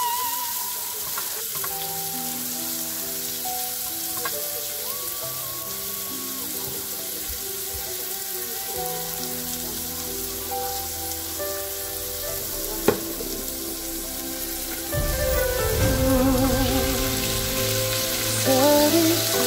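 Julienned carrots and onion sizzling as they fry in oil in a nonstick pan, with a single sharp click just past the middle. The sizzling gets louder about three-quarters of the way through as chicken pieces go into the pan.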